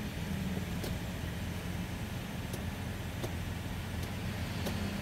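Toyota Innova Zenix Hybrid's petrol engine idling, heard inside the cabin as a steady low hum: the engine is running to charge the hybrid battery. A few faint light clicks.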